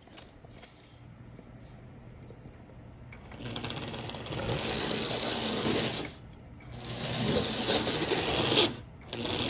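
Marx No. 898 toy steam locomotive's small electric motor and gear train whirring as it runs on the track. It starts loud about three seconds in, drops out for a moment around six seconds, runs again, then gives a short burst near the end. It is running freely, in forward and reverse, now that a jammed gear has been cleared.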